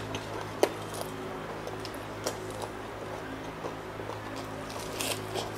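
Close-up eating sounds: wet chewing with the mouth closed, and crisp lettuce leaves crinkling and snapping as they are peeled and folded. These come as scattered clicks and crackles, busiest near the end, over a steady low hum.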